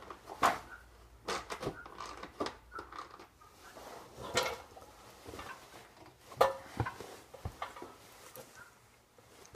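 Irregular clicks and knocks of hand tools on the bolts holding a two-stroke dirt bike's exhaust silencer as they are undone, with louder knocks about four and a half and six and a half seconds in.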